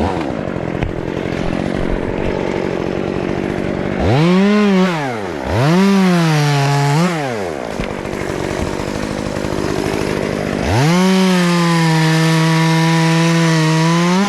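Chainsaw running at idle, revved up and back down twice in quick succession. It is then held at high revs for about three and a half seconds, the pitch sagging a little under load as it cuts wood, before dropping back toward idle at the end.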